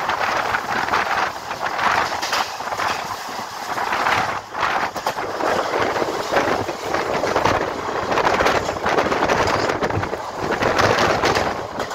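Running noise of a moving train, heard from on board: a steady rush of wheels on the rails, with wind buffeting the microphone.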